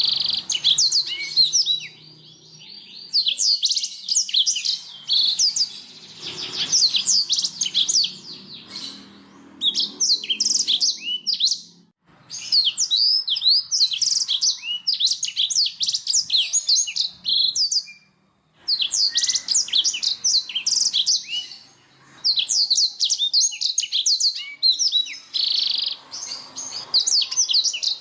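Domestic canary singing in long phrases of rapid, high trills, broken by brief pauses.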